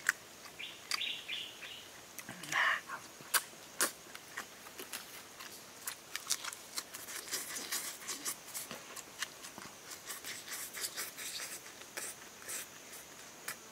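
Close-up eating sounds: a person chewing grilled snakehead fish and crunching a fresh lettuce leaf, with wet lip-smacking. It comes as a rapid run of crisp clicks and snaps, densest in the middle.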